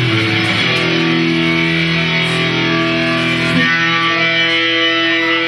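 Live rock band playing, led by a distorted electric guitar holding long, sustained chords that change every second or two.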